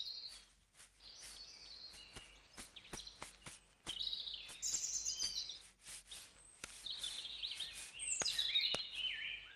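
Birds chirping: many short, high, overlapping calls that rise and fall, with sharp ticks among them.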